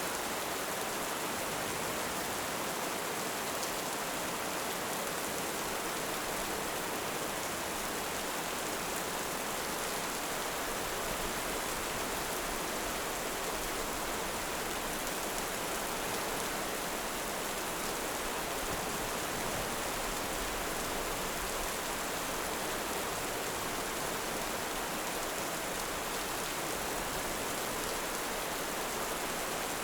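Steady heavy rain, an even hiss with no rise or fall.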